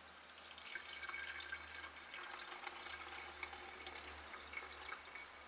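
Gasoline mix being poured, trickling faintly into a container.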